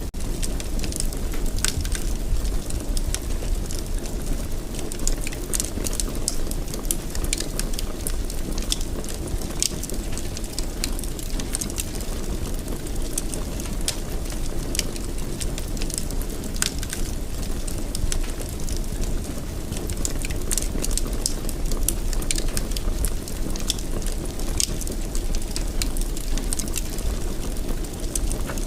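Wood fire burning in a fireplace: a steady low rumble of flames with frequent sharp crackles and pops at irregular moments throughout.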